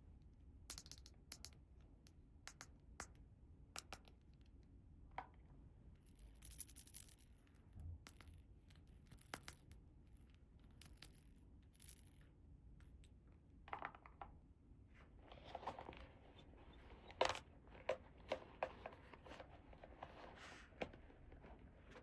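Quiet handling of small plastic toy pieces: scattered light clicks and taps, with short high rustles of plastic packaging about a third of the way in and the clicking growing busier in the second half.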